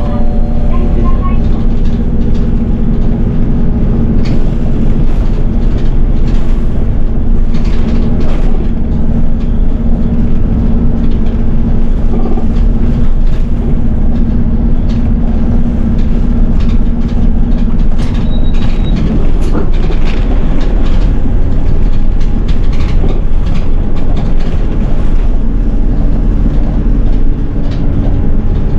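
City bus under way, heard from inside the cabin: steady engine and road noise with a low hum that fades about two-thirds of the way through, and scattered rattles and knocks from the body.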